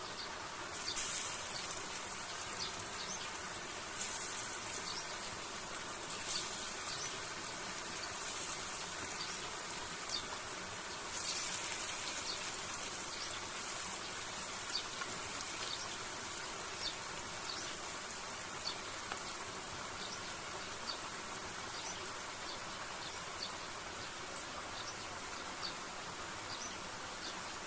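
Tropical forest insects buzzing and chirping: short high chirps repeat about once a second, with a few brief louder buzzing swells in the first half, over a steady background hiss.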